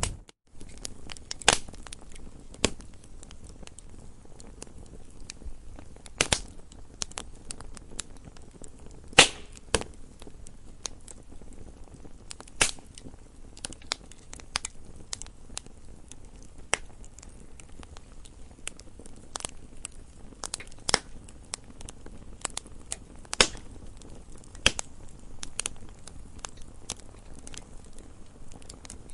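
Campfire crackling: irregular sharp pops and snaps of burning wood over a faint low hiss, with a handful of louder snaps scattered through.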